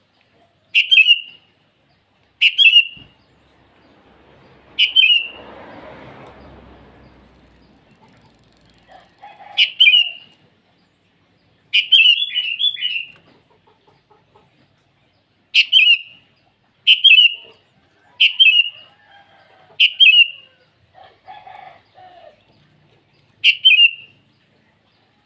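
Sooty-headed bulbul giving short, sharp calls, about a dozen spaced a second or several apart, with a quick run of three near the middle. A soft rustle runs for a few seconds after the fourth call.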